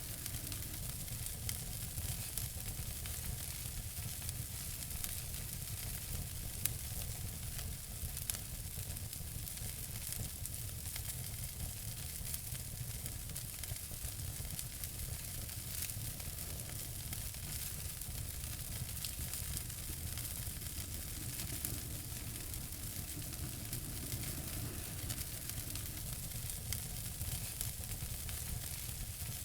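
Wood fire crackling in a fireplace: a steady hiss with frequent small pops and snaps, and two louder pops about seven and eight seconds in.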